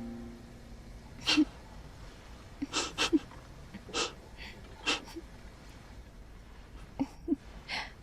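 A woman's stifled giggling: short breathy snickers through the nose at irregular intervals.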